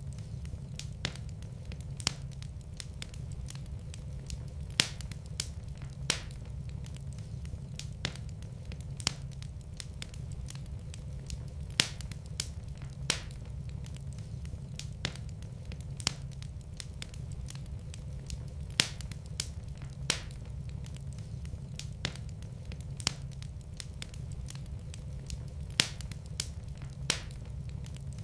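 Wood fire in a fireplace crackling: scattered sharp pops at irregular intervals, a few louder than the rest, over a steady low rumble.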